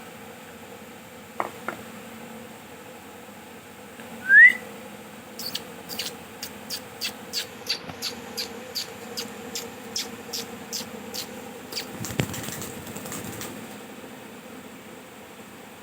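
Young ringneck parrot giving one short rising whistle, followed by a run of short sharp high chirps at about two a second, and a brief rustle near the end.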